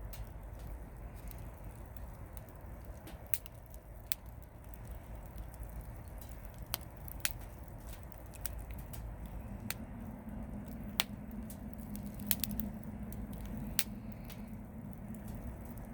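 Campfire of firewood burning with a steady low rumble, punctuated by about nine sharp, irregular crackles and snaps of the wood. A low steady hum joins about halfway through.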